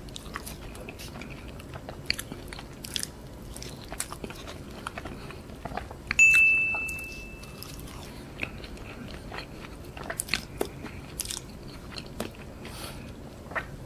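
Chewing and crunching of KFC cheesy wedges (cheese-filled potato wedges), with many small mouth clicks. About six seconds in, a short, steady high-pitched tone sounds for about a second and a half.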